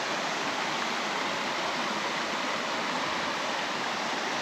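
Steady rushing of flowing creek water, an even hiss with no separate splashes.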